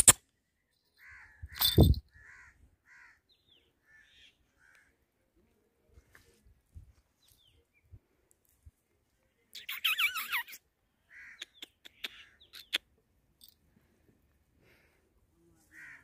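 Harsh bird calls, short caws scattered through the first few seconds and a loud wavering burst of calling about ten seconds in. A sharp knock right at the start and a thump about two seconds in are the loudest sounds, with a few sharp clicks just after the burst of calling.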